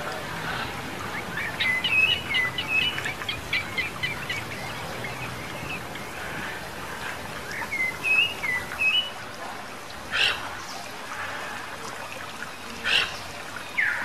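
Forest birds calling: quick runs of short high chirping notes, then two brief harsh calls later on, over a steady background hiss.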